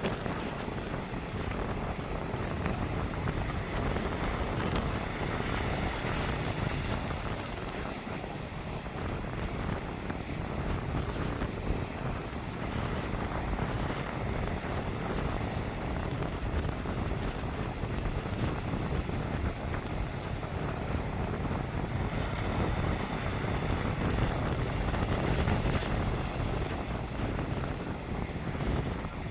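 Sea waves washing onto the shore, with wind buffeting the microphone; the surf swells louder for a few seconds twice.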